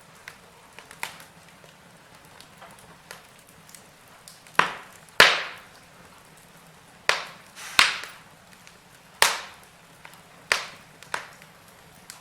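Wood fire crackling: a faint hiss broken by irregular sharp pops and snaps, with the loudest pops about five seconds in and a run of them in the second half.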